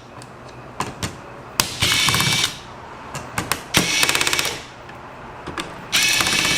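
Electric screwdriver running in short bursts, three of them under a second each with a fast rattling buzz, backing out the screws that hold a laptop heatsink. Small clicks of the bit and parts come between the bursts.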